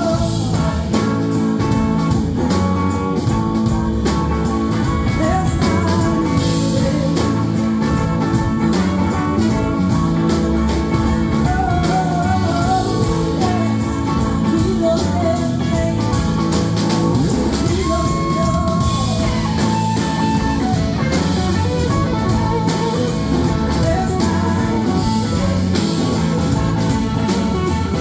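Live blues-rock band playing: an electric guitar lead with bending, gliding notes over bass and drums.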